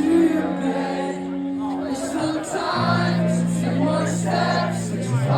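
Live rock band playing with sung vocals and many voices singing along. Long held bass notes change pitch twice, about three seconds in and near the end.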